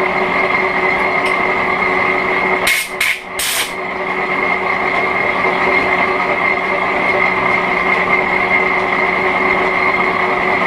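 A 1941 Hendey flat-belt-drive metal lathe running, a steady mechanical din with a held high whine and a lower hum. A little under three seconds in come three short, sharp hisses in quick succession.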